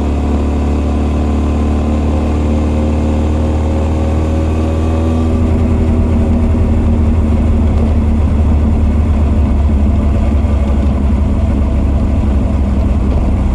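Honda CB1300 SF's inline-four engine running at fairly steady revs, its Keihin FCR41 carburettor intake and r's gear Wyvern exhaust heard together. The note rises slightly and gets a little louder about five seconds in.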